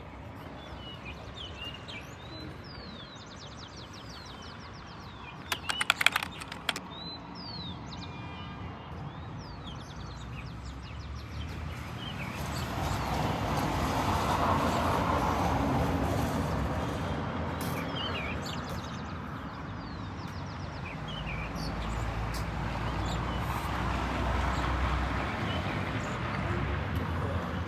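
Small birds chirping throughout, with a quick burst of loud clicks about six seconds in. The sound of a passing vehicle swells up and fades twice, in the middle and near the end.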